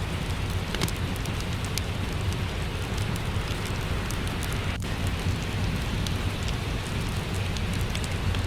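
Steady rain mixed with a crackling wood fire: an even hiss with a low rumble, scattered small pops and ticks throughout, and one sharper snap about five seconds in.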